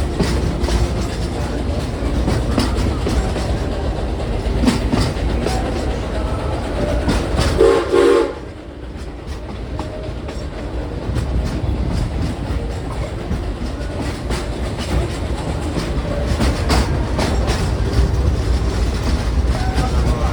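Steam train passenger car rolling along, a steady rumble with the clickety-clack of wheels over rail joints. About eight seconds in the locomotive's whistle gives one short blast.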